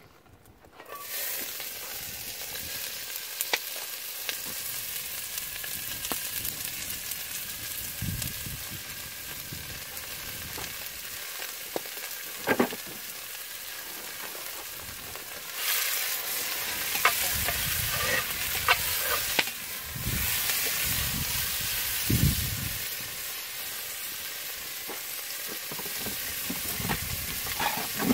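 Chopped potatoes, pork and onions sizzling as they fry in hot oil in a cast-iron pot over a campfire. The sizzle starts about a second in and steps louder twice past the halfway point, with a few sharp clicks.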